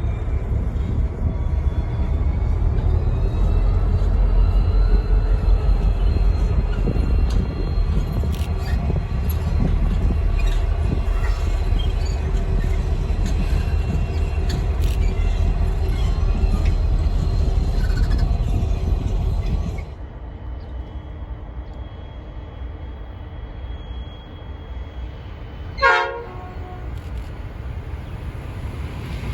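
Grain train hauled by three 81 class diesel-electric locomotives rolling past with a heavy low rumble and some thin wheel squeal, dropping off sharply about two-thirds of the way in as it goes by. A brief sharp toot sounds near the end.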